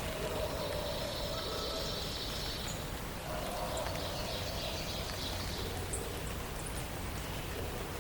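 Dawn-chorus forest ambience: birds singing repeated phrases, each lasting a second or two, over a steady background hiss.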